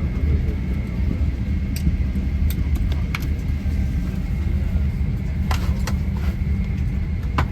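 Steady low rumble and hum inside a Boeing 767-300 cabin on the ground before departure, with a faint steady whine and scattered light clicks and knocks.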